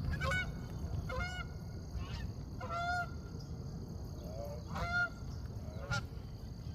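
Geese honking: a series of short honks, one every second or two, over a steady low rumble.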